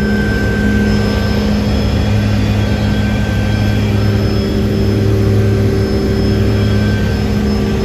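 Small helicopter running steadily, a constant engine and rotor drone with a steady whine over it.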